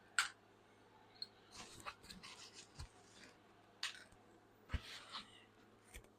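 Small metal hydraulic valve parts being handled on a workbench: a few scattered light clicks and knocks with soft rustling between them.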